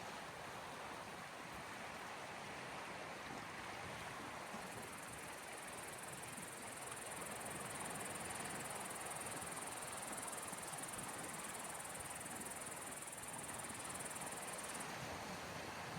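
Small sea waves washing on the shore, a steady wash of water noise that swells a little mid-way. A thin high hiss joins about five seconds in and cuts off suddenly near the end.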